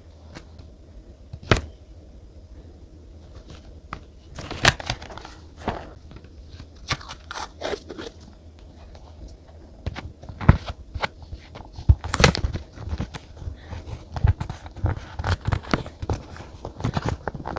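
Paper and stickers handled at a desk while journaling: irregular crinkles, rustles and sharp taps, sparse at first and coming thick and fast from about ten seconds in, over a faint low hum.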